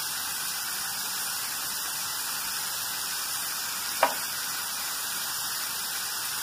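Bacon and diced chicken sizzling steadily in a frying pan, with one short click about four seconds in.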